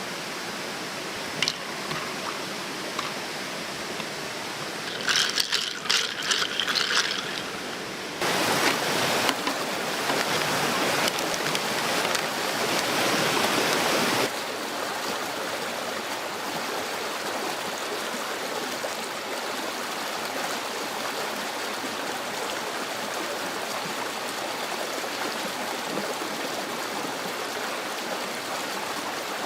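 Steady rushing of a stream, louder for several seconds in the middle. A short run of rapid mechanical clicks sounds about five seconds in.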